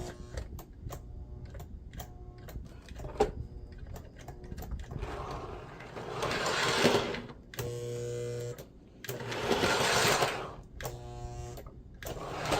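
Lionel 2032 Erie FA-1 model diesel locomotive running on a test track after its motor and E-unit wiring were reconnected: a motor-and-gear whirr that swells and drops, with scattered clicks, and a steady electrical hum in the lulls.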